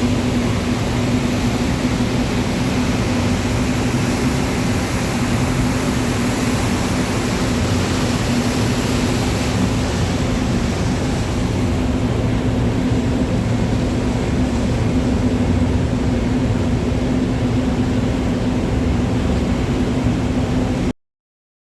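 Ship's engine-room machinery running: a loud, steady drone with a constant low hum, cutting off suddenly near the end.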